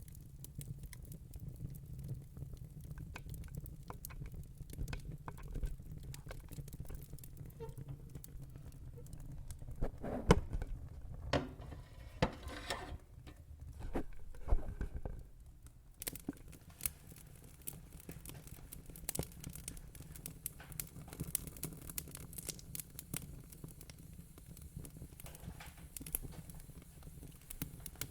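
Wood fire in a fire pit crackling: scattered sharp pops and snaps over a steady low rumble, with a busier, louder run of crackles around the middle.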